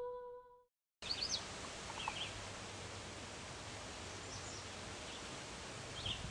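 The last note of a hummed lullaby fades out, and after a moment of silence comes outdoor ambience: a steady soft hiss with small birds chirping briefly a few times.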